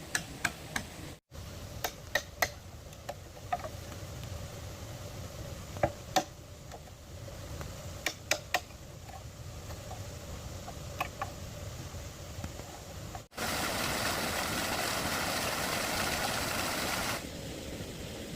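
Scattered sharp knocks and taps, some in quick pairs or threes, typical of hand work on bamboo poles. Near the end a steady hiss runs for about four seconds.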